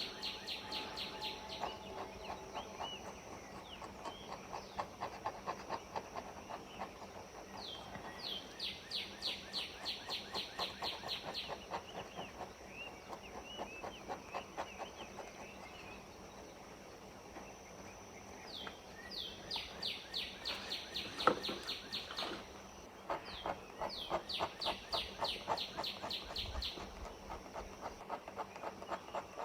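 Fine-tip ink pen scratching on paper in quick short strokes, several bursts of rapid flicks about five or six a second, as pine needles are drawn.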